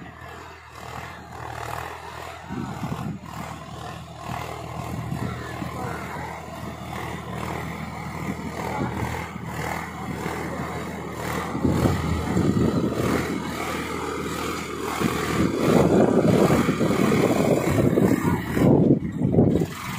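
Solis 4515E 50 hp tractor's diesel engine running steadily while working a cultivator, growing louder and rougher about halfway through and again near the end.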